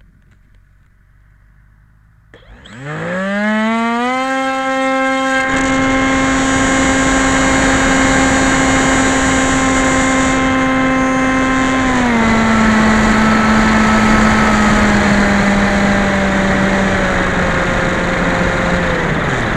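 Skyhunter FPV plane's electric motor and propeller spooling up from silence to a steady high whine about two and a half seconds in, with rushing air noise joining a few seconds later. The pitch steps down twice as the throttle is eased back, and the motor cuts out near the end.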